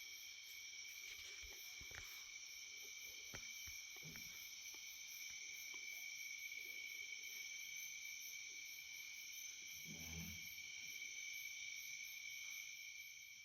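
Night chorus of crickets and other insects: several steady high trills overlap with a faster, very high pulsing, all faint. A few light clicks and a soft low thump about ten seconds in.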